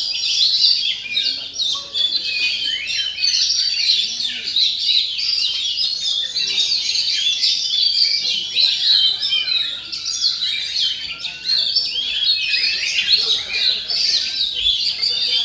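Oriental magpie-robin (kacer) in full song: a dense, unbroken stream of quick, varied chirps and whistles.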